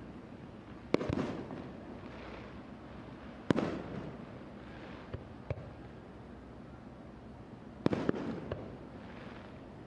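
Aerial firework shells bursting in a large display. Three loud bangs come about a second, three and a half and eight seconds in, each trailing off over about a second, with smaller pops between them.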